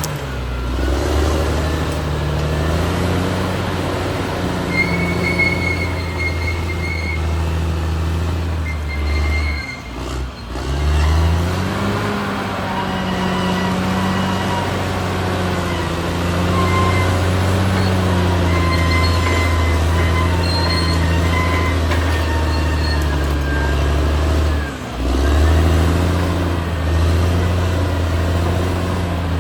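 Caterpillar D6R XL bulldozer's diesel engine running under load, with high squeals from the undercarriage coming and going. The engine drops off briefly twice, about a third of the way in and again near the end, and picks back up with a rise in pitch.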